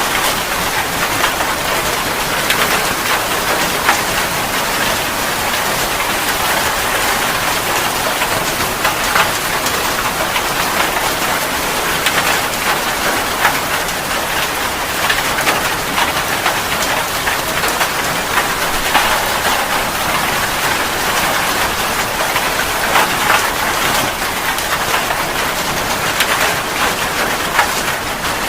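Steady rain falling, a dense even hiss with many individual drops striking a surface.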